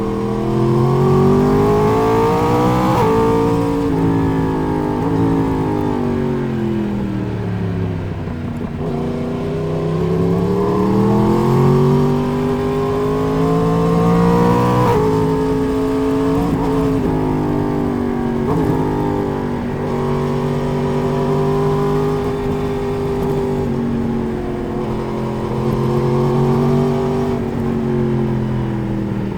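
Sport motorcycle engine heard from onboard while riding: the revs climb with a gear change about three seconds in, fall away as the bike slows, climb hard again, then settle into a steadier cruise with smaller rises and dips.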